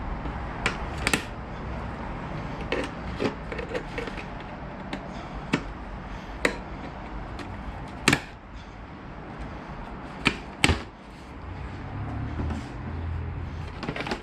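Scattered sharp clicks and knocks of plastic motorcycle fairing parts and their screws and push pins being handled during disassembly, about ten in all, the loudest about 8 s in and a pair near 10.5 s, over a low steady background rumble.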